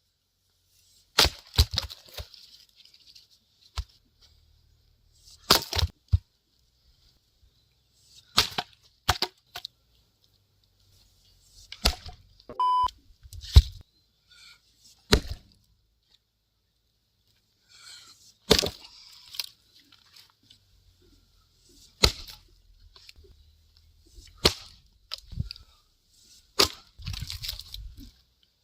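Axe chopping wood: sharp single strikes every two to three seconds, some followed quickly by a second strike.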